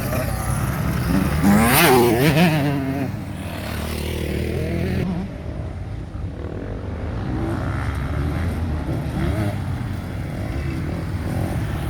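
Motocross bikes racing: one bike's engine revs hard as it passes close about two seconds in, its pitch rising and falling, then other bikes' engines carry on further off.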